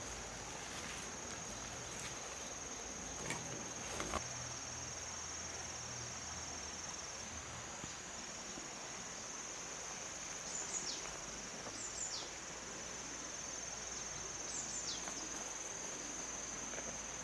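Steady, high-pitched insect trill, with a few short down-sliding bird calls in pairs from about the middle onward and a couple of faint knocks early on.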